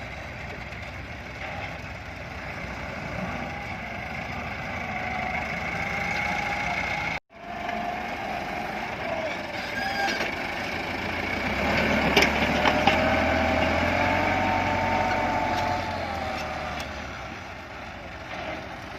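Massey Ferguson 240 tractor's three-cylinder diesel engine running under load, its pitch wavering. There is a brief break about seven seconds in, and it gets louder from about twelve seconds.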